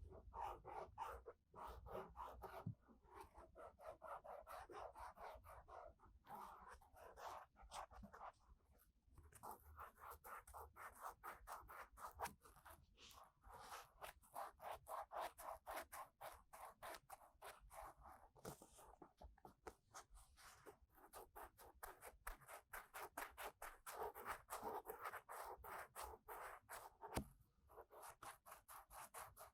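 Ear-cleaning tool rubbing and scraping inside a 3Dio binaural microphone's ear: quiet, rapid repeated scratchy strokes with a few short pauses.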